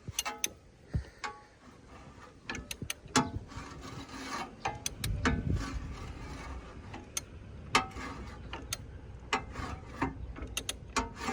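Irregular metallic clicks, clinks and scraping from hand tools working on the engine while the crankshaft is turned round by hand to bring the timing mark up. A few of the clinks ring briefly.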